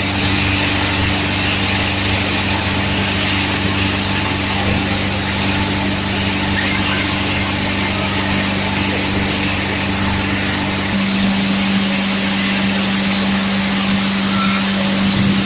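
Automatic PET bottle washing machine running: a steady electric motor hum over a constant mechanical hiss and rattle. About eleven seconds in, the hum shifts to a higher, stronger tone as the load changes.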